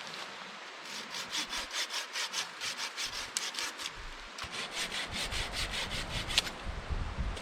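Hand saw cutting firewood, rhythmic back-and-forth strokes at about four a second, in two runs with a short pause between them.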